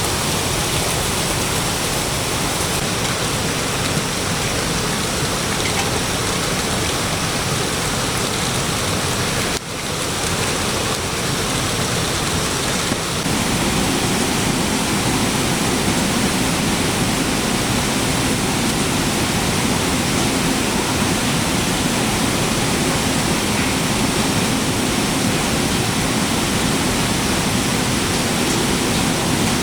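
Steady, loud rush of water, heavy rain or flowing floodwater. It drops out for a moment about ten seconds in, and from about thirteen seconds it becomes fuller and deeper.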